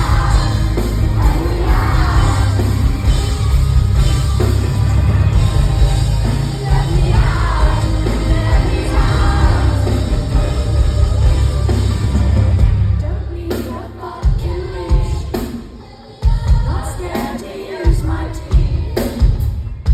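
Live concert sound through a phone microphone: a loud band with heavy bass and sung or shouted vocals plays on, then the music stops about two-thirds of the way in and the audience yells and cheers.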